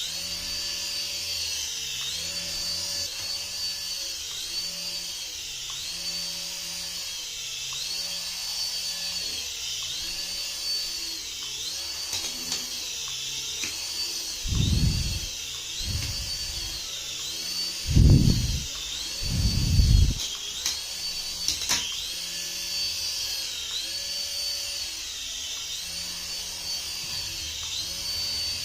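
High-pitched electric whine from a battery-powered RC toy, rising and falling in a steady cycle about every second and a half. Several dull thumps come about halfway through.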